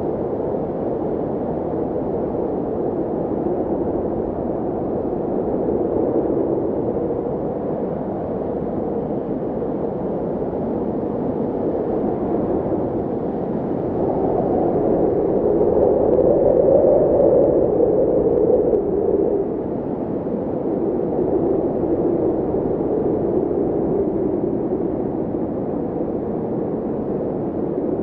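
A steady, muffled droning noise with slow swells in level, the loudest swell about halfway through.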